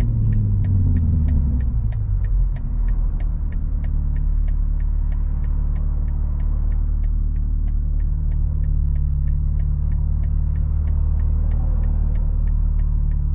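BMW G80 M3's twin-turbo straight-six with a single midpipe, heard from inside the cabin: the revs fall over the first two seconds, then settle into a steady low drone. Through it runs an even ticking about three times a second, typical of the turn-signal indicator.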